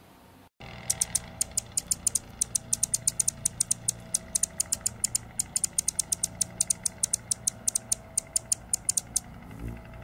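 A small bird's rapid, sharp, very high chip notes, roughly five or six a second and unevenly spaced, over a low steady rumble. The chips stop near the end, where a short low thump is heard.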